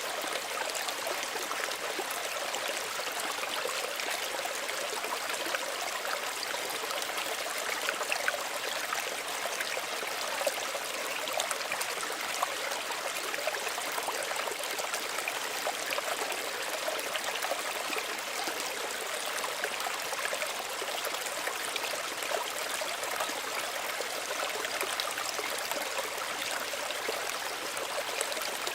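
Small stream running and trickling steadily, a constant gentle rush of water with fine splashing detail and no low rumble.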